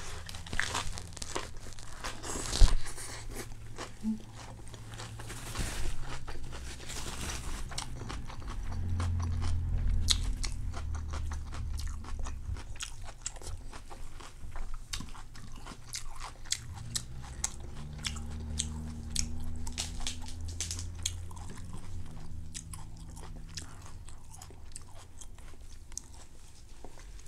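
Close-miked chewing of crispy rice pancake (bánh xèo): a steady run of crisp crunches and chewing.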